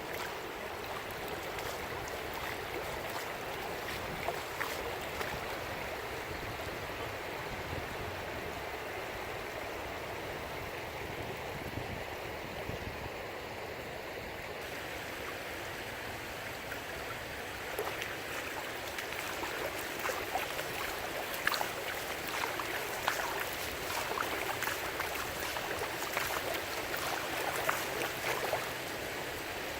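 Floodwater rushing past in a steady wash of noise, the river running far above its flood stage. In the second half, scattered crackles and taps ride over the rush.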